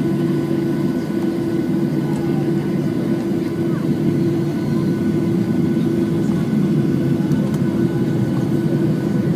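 Steady engine and airflow noise inside the cabin of a Boeing 737-8, whose CFM LEAP-1B turbofans give a constant low drone with a few faint steady whines above it.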